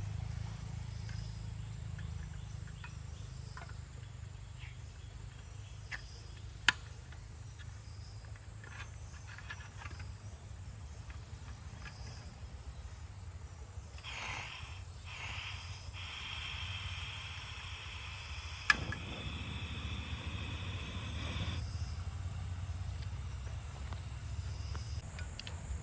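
Forest ambience with a steady high-pitched insect drone and a low rumble underneath. A few sharp clicks stand out, two close together about six seconds in and one more past the middle.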